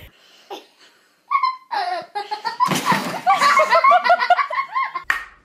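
People laughing, starting a little over a second in and running on as rapid, high-pitched giggling.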